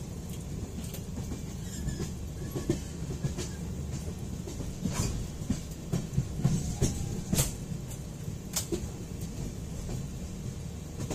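Passenger train running, heard from inside the coach: a steady low rumble of wheels on rails with irregular sharp clacks, a few louder ones near the middle.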